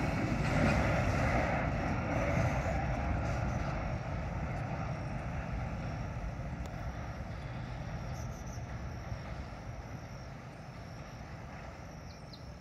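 Freight train's wagons rolling away along the track, a steady rumble of wheels on rail that fades evenly as the last cars move out of hearing.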